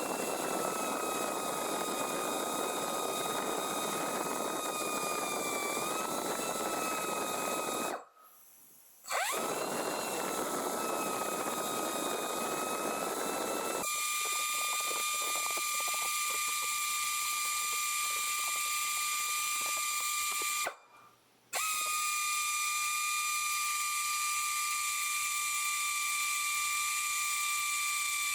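Power drill drilling into a broken exhaust manifold bolt in the cylinder head. Its motor spins up with a rising whine and runs steadily with a gritty rushing noise, stops for about a second twice, and runs as a cleaner, steady whine for the second half.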